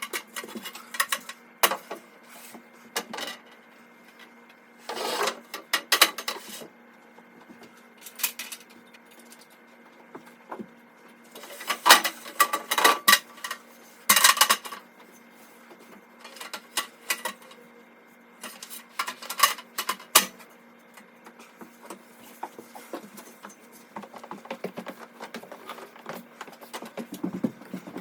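Irregular clattering, knocking and scraping as a ladder and wooden plank are handled and set up into makeshift scaffolding. The sounds come in separate bursts, the loudest about five seconds in and again around twelve to fourteen seconds in.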